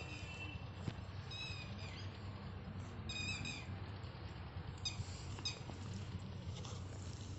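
Squirrel chirping: short, high calls in a few quick clusters, over a steady low hum.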